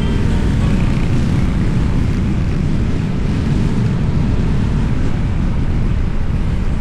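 Motorbike in motion: wind buffeting the microphone over the engine and road noise, a steady low rumble.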